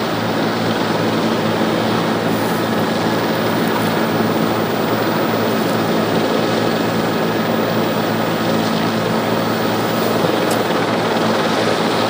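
Steady drone of a news helicopter's engine and rotor: a constant hum of low tones under a broad rushing noise.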